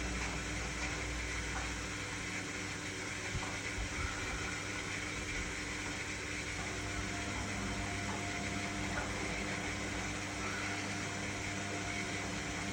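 Indesit My Time EWD61052 front-loading washing machine running mid-cycle: a steady mechanical hum with water noise. The deepest part of the hum drops away about two seconds in.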